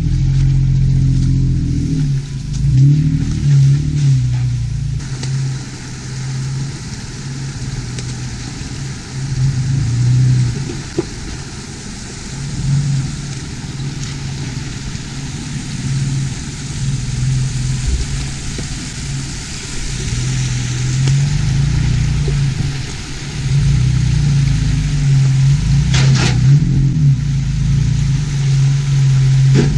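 Vehicle engine running and revving, its low drone rising and falling with the throttle as the vehicle drives.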